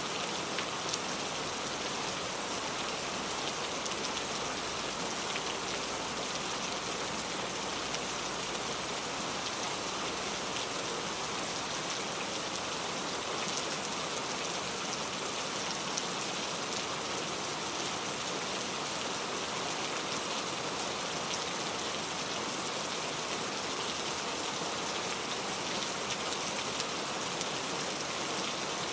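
Steady rain falling: an even, unbroken hiss peppered with many fine drop ticks.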